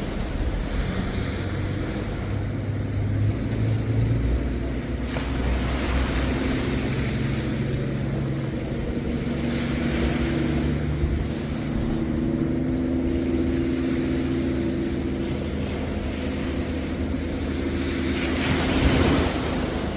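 An engine drones steadily, its low hum slowly shifting in pitch, over the wash of surf. A louder rush of surf swells up near the end.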